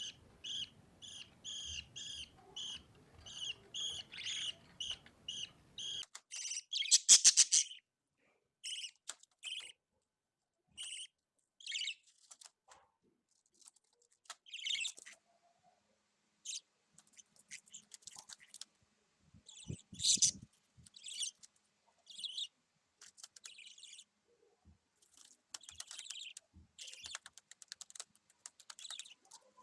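Budgie chicks chirping: a steady run of short high chirps, about two or three a second, then, after a sudden change about six seconds in, scattered short chirps and squeaks, the loudest about seven seconds in.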